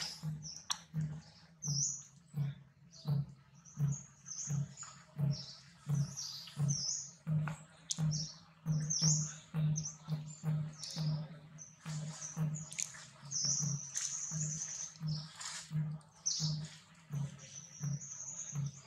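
Birds chirping and twittering, with many short, high calls, over a steady low thump about twice a second.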